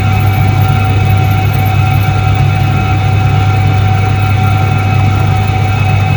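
1978 Soviet ISET-3 washing machine running, its electric motor giving a loud, steady hum with a few steady higher tones over it.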